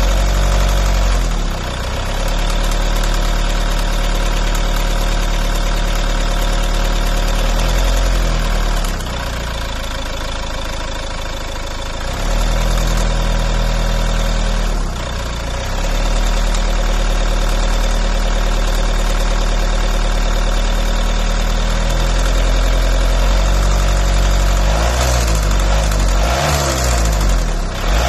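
Volvo V50 engine idling with a steady note that the owner calls strange. Its pitch shifts a few times as the revs change, it runs quieter for a few seconds around ten seconds in, and the revs rise and fall unevenly near the end.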